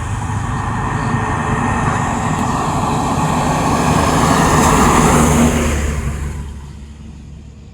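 Truck passing by on the road: engine and tyre noise build to a peak about five seconds in, then fade as it moves away.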